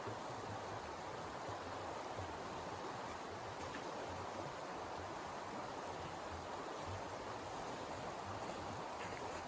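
A steady rushing noise with an irregular low rumble underneath and no distinct events.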